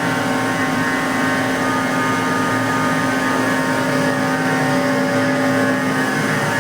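Danfoss 90R250 variable-displacement axial piston hydraulic pump running on a test bench in neutral, a steady hum-whine made of several held tones that does not change in pitch or level.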